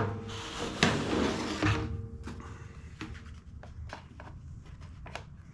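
Small parts and tools handled on a workbench: rustling and clatter with a few knocks for about two seconds, then a series of light clicks and taps that grow fainter.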